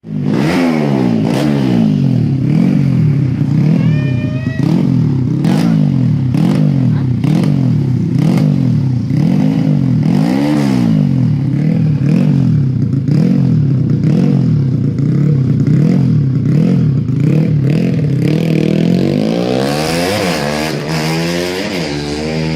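Race-tuned 150 cc Yamaha Jupiter four-stroke motorcycle engine being revved, the throttle blipped up and down about once a second. Near the end the revs climb more slowly and are held higher.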